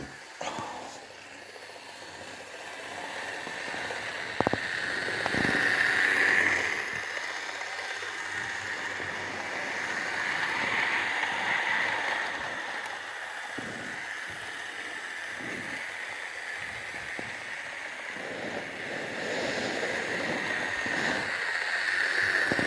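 Repaired Lima model train locomotive running slowly on its track at the lowest current setting, its small electric motor whirring with rail noise. The sound swells and fades three times as it comes near and moves away, with a sharp click about four seconds in.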